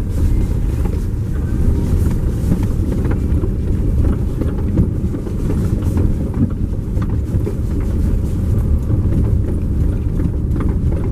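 A car being driven: steady low engine and road rumble, with scattered small knocks from the road surface.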